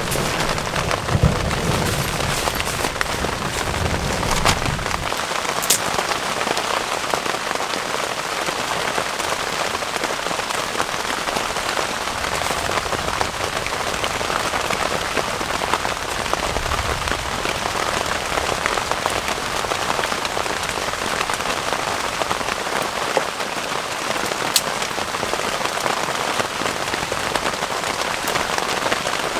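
Heavy rain falling steadily in the woods, with a low roll of thunder in the first few seconds and a couple of sharp drop hits close by.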